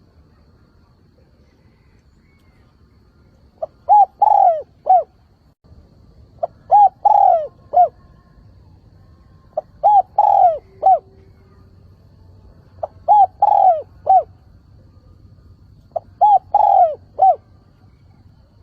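Spotted dove singing its cooing song: five phrases about three seconds apart, each a quick short note, a longer coo and a short closing note.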